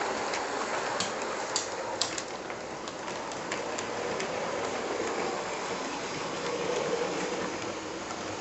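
Bachmann large-scale model train running along its track: a steady rolling rumble with scattered sharp clicks over the first few seconds.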